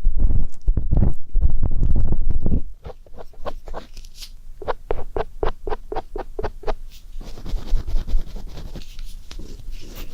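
Ear-cleaning ASMR sounds of an ear pick worked against a microphone's ear. It starts as a deep rubbing rumble, then turns to a quick, even run of little scratching strokes, about four or five a second, and ends in softer scraping.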